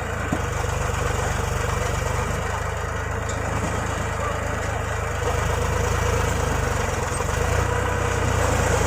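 Diesel engine of a tractor or backhoe loader running steadily at low revs, a constant low hum, a little louder in the second half.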